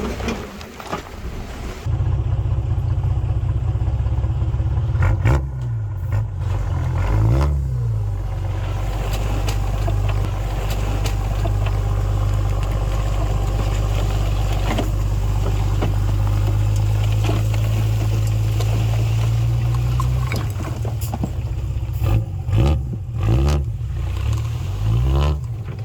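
Heavy diesel engine of a working bulldozer running under load, its pitch rising and falling a few times about five to eight seconds in and again near the end, with scattered clanks.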